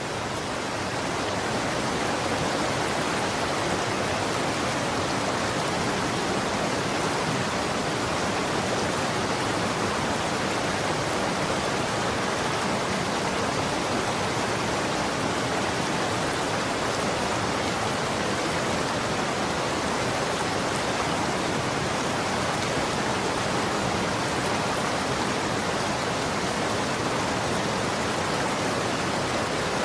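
Running water flowing steadily: an even, unbroken rushing that swells slightly in the first second or two, then holds.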